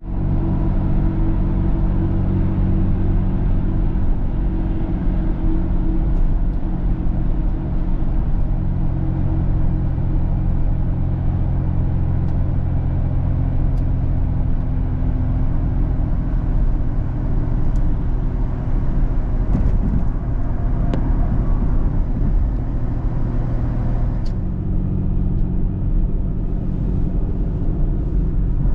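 A car being driven: a steady low engine and road drone with a few faint ticks.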